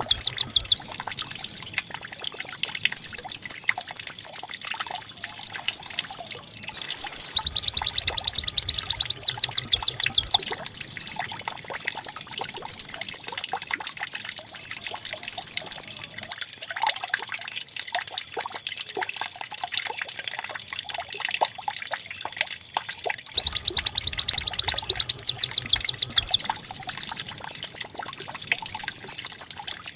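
Recorded white-eye (pleci) song with canary-like phrasing, played as a lure track to set a caged white-eye singing. Each identical phrase is a fast high trill, then a wavering warble, then another fast trill, repeated about every eight seconds with a break of several seconds midway.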